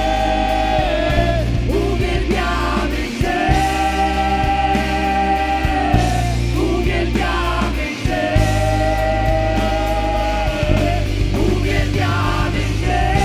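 Live worship band music with a full rock-style band: long held notes in phrases of about three seconds over a steady bass line.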